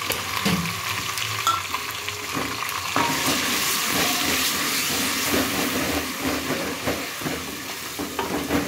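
Green masala paste sizzling as it fries in hot oil in an aluminium pot, stirred and scraped with a wooden spatula, with light knocks against the pot. The sizzling gets louder about three seconds in.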